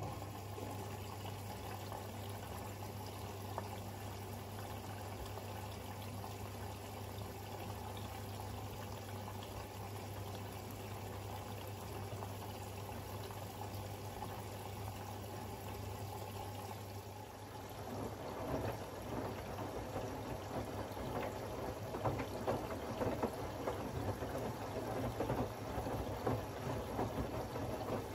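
Siemens iQ700 front-loading washing machine during the wash: water rushing and swishing in the drum over a low steady motor hum. From about 18 seconds in it turns louder and more irregular, with splashing and sloshing as the drum turns the wet laundry.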